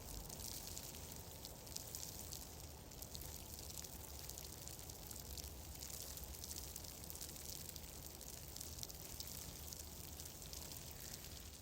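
Relaxation ambience soundscape: a steady low rumble under a dense, even patter of fine crackling ticks.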